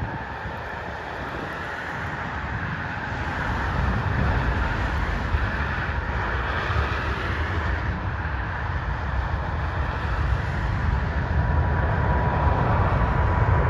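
Boeing 787 jet engines at takeoff power: a broad rushing roar with a deep rumble that grows steadily louder as the airliner takes off.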